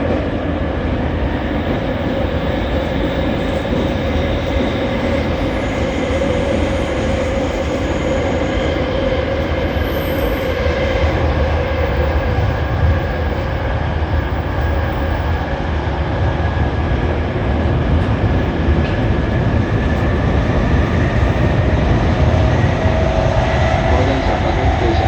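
JR East E231 series 800-number electric commuter train running underground, heard from inside the passenger car. A steady rumble of wheels on rail carries the traction motors' whine, and one tone rises slightly in pitch near the end.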